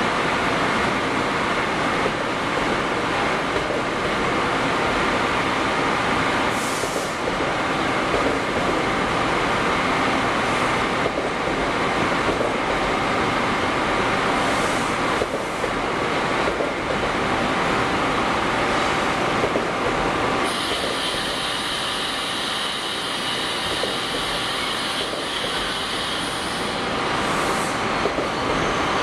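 NJ Transit commuter train moving slowly past along the platform: a steady rumble of wheels on rail with occasional brief clatters and hisses. About two-thirds of the way in, a steady high whine joins as the locomotive goes by, fading near the end.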